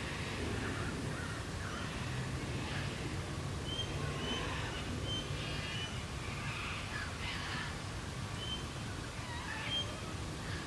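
Birds calling in the Australian bush at dusk: several short rasping calls and a scatter of brief high whistled notes, over a steady low rumble.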